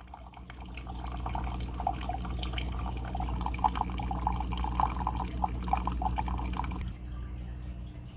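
Water running from a tap and splashing, shutting off about seven seconds in, over a steady low hum.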